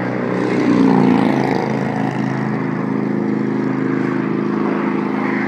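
A motor vehicle's engine running close by, its pitch shifting briefly about a second in and then holding steady.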